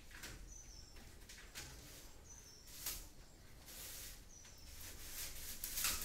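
A small bird gives a short, high, falling chirp about every two seconds, over irregular rustling and scraping as electrical wire is handled, loudest about three and six seconds in.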